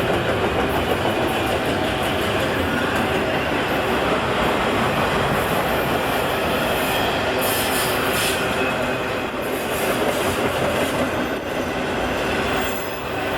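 Freight cars of a CN freight train rolling steadily past, heard from track level: continuous steel-wheel-on-rail noise with no break.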